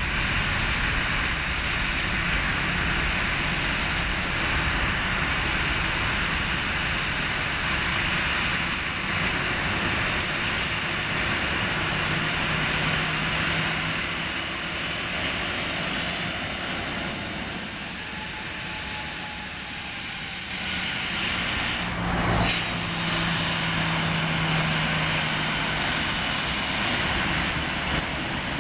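Boeing 737 jet engines running with a steady rushing roar, a low hum coming in partway through and faint rising whines above it, with one sharp click about three-quarters of the way in.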